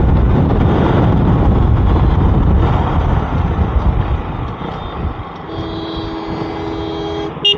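Wind buffeting the microphone over the rumble of a KTM RC 200 motorcycle being ridden, easing after about three seconds. Near the end a vehicle horn sounds steadily for about two seconds, then gives a few short honks.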